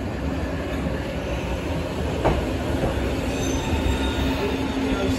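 Eizan Electric Railway train pulling into the station and rolling along the platform: a steady low rumble with a held hum, one sharp clack from the wheels about two seconds in, and faint high wheel squeal near the end.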